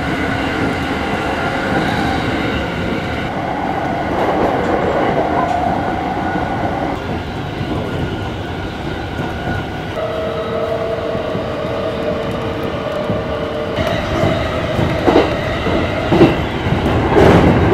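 Electric local train running on the rails, with a steady whine whose tones shift about ten seconds in. A few sharp clacks from the wheels near the end are the loudest part.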